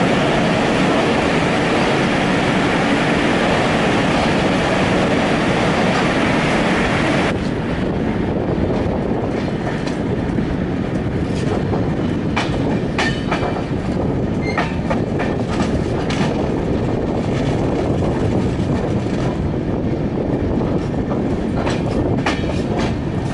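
A passenger train running on the track, heard from aboard: a steady rumble and rushing noise with wheel clatter. About seven seconds in, the loud rushing suddenly drops away, and rattling clicks and a few short wheel squeals follow.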